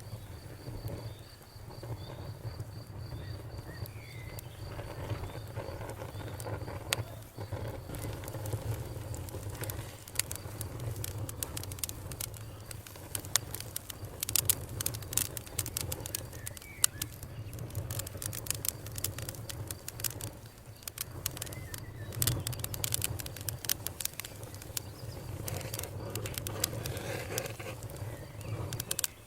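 Wood campfire crackling, with sharp pops and snaps that come thicker in the second half, over a low steady rumble of burning. A high, steady insect trill sounds through the first six seconds or so.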